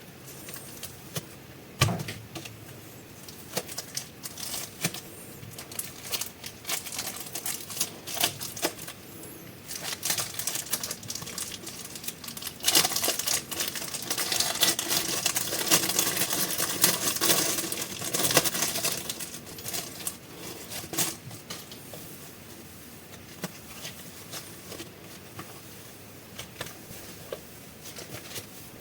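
Plastic packaging of super clay being crinkled and handled: scattered sharp clicks and taps, with a long stretch of dense crinkling in the middle.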